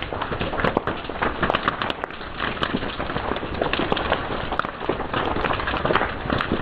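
Fire crackling and popping: a dense, irregular run of sharp snaps over a steady hiss.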